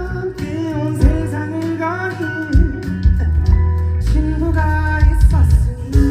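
A live band performs a pop-rock song: a male singer sings over guitar, bass and a steady drum beat.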